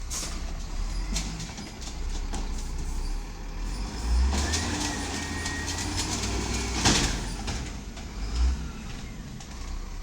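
1999 Volvo diesel garbage truck running with a steady low rumble, surging a few times, with a thin whine for a couple of seconds and a sharp clatter about seven seconds in.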